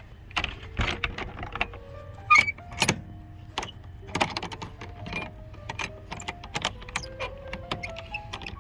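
Irregular clicks, clatters and knocks, several close together at times and one louder knock about two seconds in, over a steady low hum.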